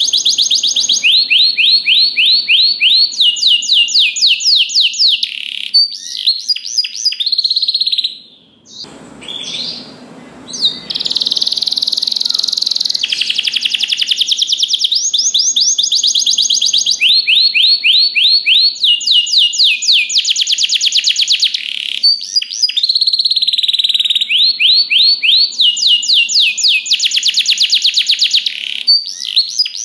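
Domestic canary singing: long rolling trills of fast, rapidly repeated high notes, the speed and pitch changing from phrase to phrase. The song breaks off briefly about nine seconds in, then resumes.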